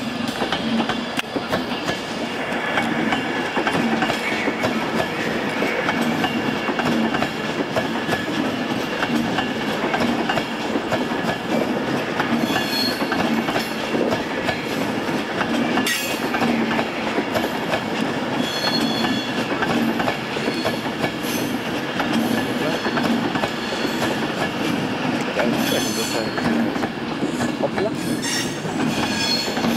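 Virgin Class 390 Pendolino electric train running past at close range: a steady rumble of wheels on rail with clicks over the rail joints and bursts of high-pitched wheel squeal, the squeal coming back more strongly near the end.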